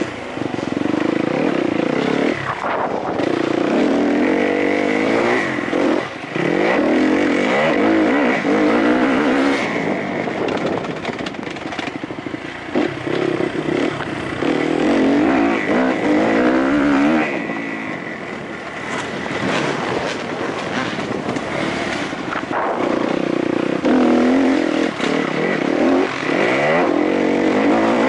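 Kawasaki KX-F four-stroke motocross engine heard from on board at race pace, the revs climbing and dropping over and over as the rider accelerates, shifts and backs off into corners.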